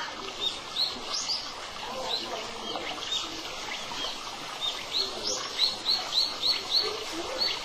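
Small birds chirping and singing over a steady background hiss, with a quick run of repeated high notes, about four a second, starting about five seconds in.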